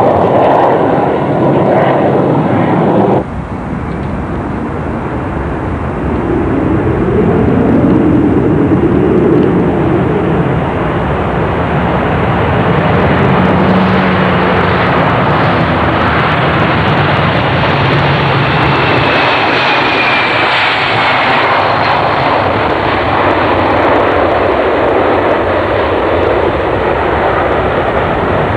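Boeing 747-300 jet engines at takeoff power: a loud, continuous rumble and roar with slow shifts in pitch as the airliner moves past. The sound drops suddenly about three seconds in, then builds back and holds steady.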